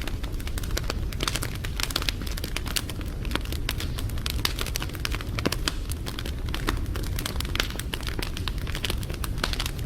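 Wood fire crackling, with a rapid, irregular run of sharp pops and snaps over a steady low rumble of the flames.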